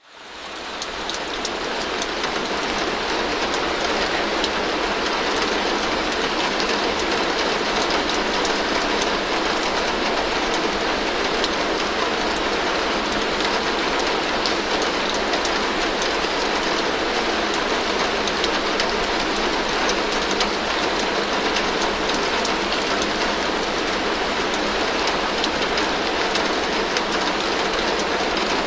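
Heavy rain drumming steadily on a tin roof, a dense even patter of countless drops. It fades in over the first second or two.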